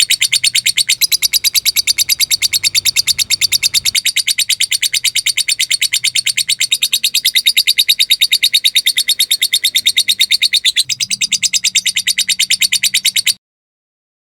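Lovebird giving a long 'ngekek' chatter: a loud, rapid, unbroken run of sharp high-pitched chirps that stops abruptly about thirteen seconds in.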